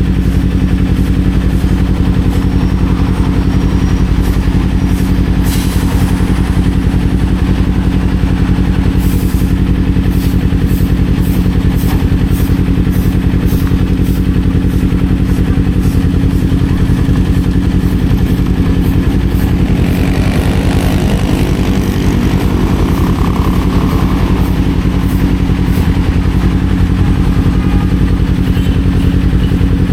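Kawasaki Z400's parallel-twin engine running at a steady speed while the bike is ridden, loud and even.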